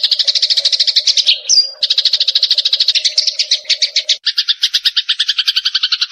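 Eurasian tree sparrow chattering, played as a lure call: a fast run of short chirps, about a dozen a second, broken briefly after about a second by a short whistled note, then changing at about four seconds to a lower, two-toned chatter that stops at the end.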